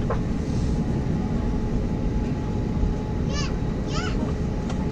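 Steady low rumble of an Airbus A320 cabin with the engines and air conditioning running, under a faint steady hum. Two short high-pitched sounds come about three and four seconds in.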